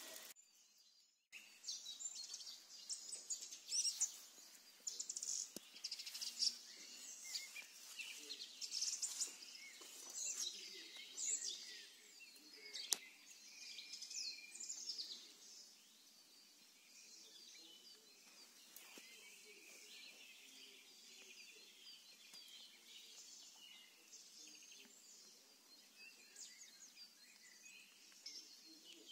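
Several songbirds singing and chirping: a busy chorus of quick, high calls that thins to scattered calls in the second half.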